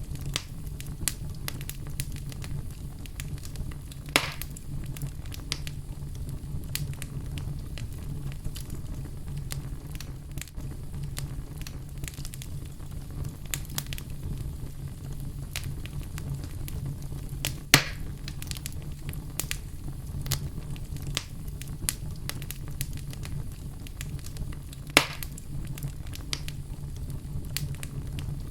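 Wood fire in a fireplace burning with a steady low rumble and frequent irregular crackles, with three louder pops about 4, 18 and 25 seconds in.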